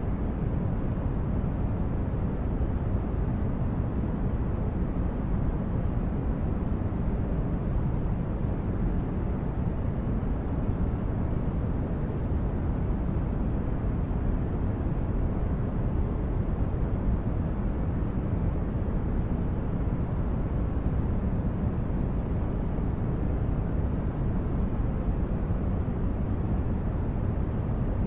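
Steady low brown-noise hum of a synthesized spaceship-corridor ambience, even throughout with no distinct events.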